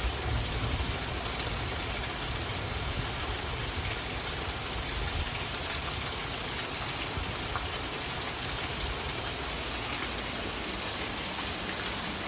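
Steady rain falling, a new wave of a thunderstorm's downpour, with a low rumble during the first few seconds.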